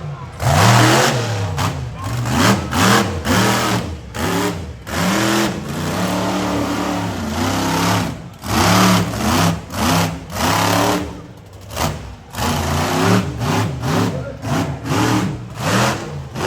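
Monster truck's supercharged V8 revving hard in repeated throttle bursts, its pitch climbing and dropping again and again.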